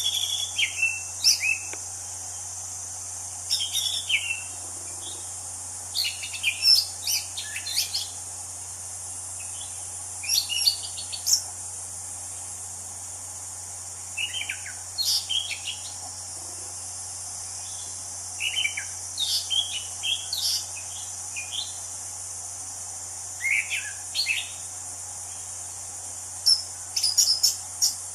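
An anis cendana thrush singing in bouts of quick, varied whistled notes, one short phrase every two to four seconds, over a steady high-pitched insect drone.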